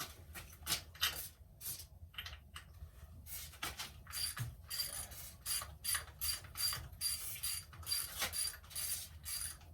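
Hand socket ratchet being swung back and forth on an engine bolt, its pawl clicking in short runs about twice a second.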